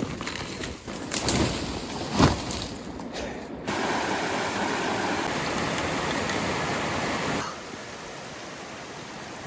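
Rushing water: a steady, even rush that changes level abruptly twice, louder from about a third of the way in and quieter near the end, with a few knocks and splashes in the first few seconds.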